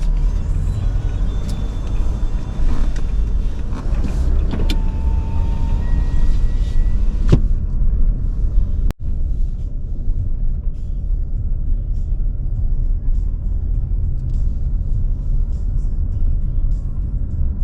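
Car driving, with a steady low engine and road rumble and a momentary break about nine seconds in.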